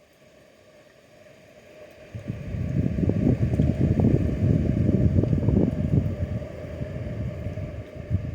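Wind buffeting the microphone: a low, gusty rumble that comes in about two seconds in and eases off near the end.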